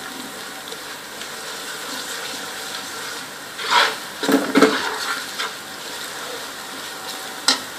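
Onions, garlic and spices frying in oil in a cooking pot, a steady sizzle, as the mixture is stirred. There are a few louder stirring strokes about four to five seconds in and once near the end.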